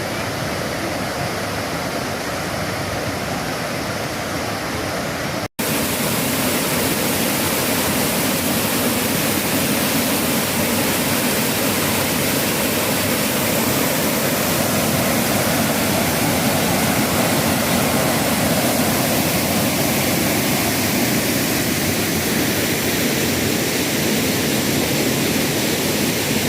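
Waterfall: a steady, even rush of falling water. About five seconds in it cuts out for an instant and returns a little louder.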